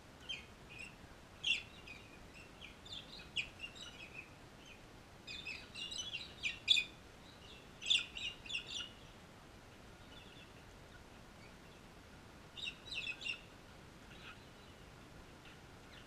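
Birds chirping in short clusters of high calls with quiet gaps between, busiest through the middle and with one more cluster near the end.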